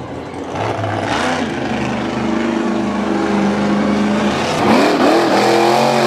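Monster truck engine running at a steady pitch, then revving up and down several times near the end.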